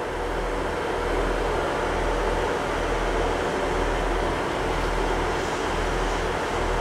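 Northern diesel multiple unit running slowly into the platform: a steady engine drone and rumble that gets louder about a second in.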